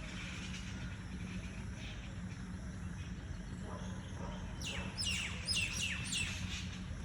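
Songbird calling: a quick run of about six sharp down-slurred chirps a little past halfway, over a steady low background rumble.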